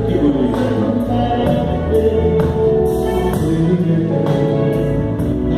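Live band music with a singer and backing voices over a steady beat of about two drum strokes a second.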